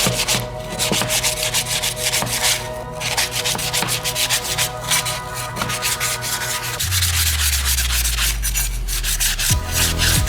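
Hand sanding: quick repeated rubbing strokes, several a second.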